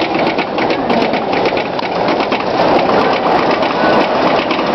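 Bobsled roller coaster machinery: a loud, steady, rapid mechanical rattle and clatter.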